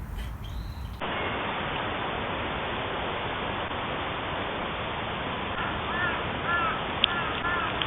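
A steady rushing noise starts abruptly about a second in. In the second half a bird calls repeatedly with short, arched calls, about two a second.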